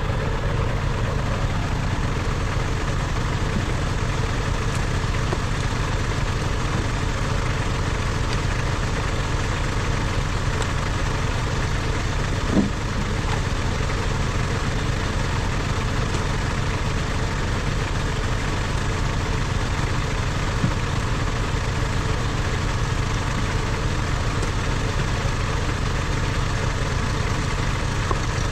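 Log splitter's gas engine running steadily at an even idle, with a single knock about twelve seconds in.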